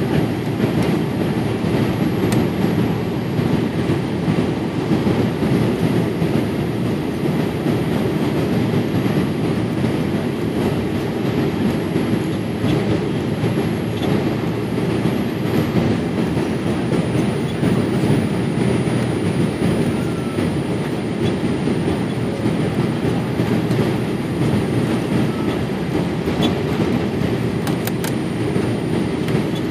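Steady low rumble inside the cabin of a Boeing 787-8 airliner: engine and airflow noise with a few faint rattles.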